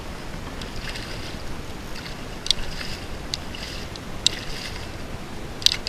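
Wind on the microphone and water lapping against a small boat, a steady wash, with four brief sharp splashes or clicks spread through the middle and near the end.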